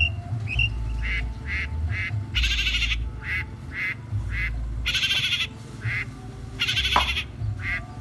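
Long-tailed shrike singing vigorously: a run of short repeated notes broken three times by longer harsh, wavering calls that mimic a goat's bleat.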